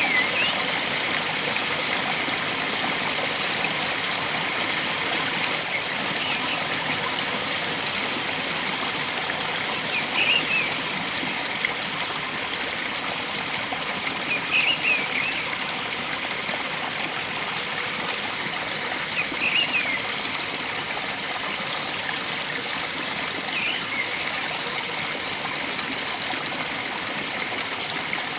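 Steady rush of flowing stream water, with a bird giving a short chirping call about every four to five seconds.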